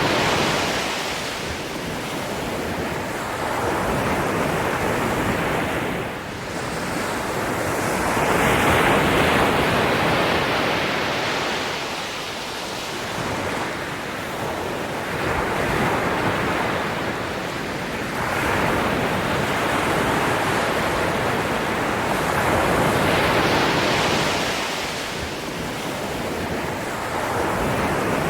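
Ocean waves breaking and washing in, a continuous rushing surf that swells and falls back roughly every four seconds.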